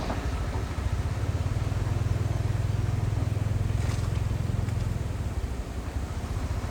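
Heavy diesel engine of earthmoving equipment running steadily with a low rumble, with a faint click about four seconds in.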